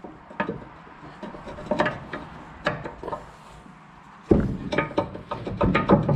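Scattered metallic clicks and knocks from pin parts being handled and worked. About four seconds in, a louder, busier run of knocks and rattles begins.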